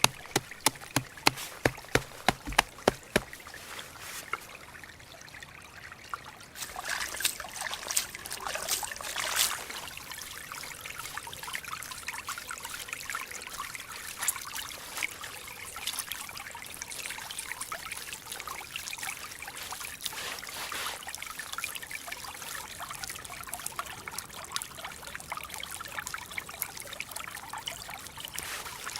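A run of sharp, evenly spaced knocks, about two a second, ends about three seconds in. From about seven seconds in, water trickles and splashes steadily.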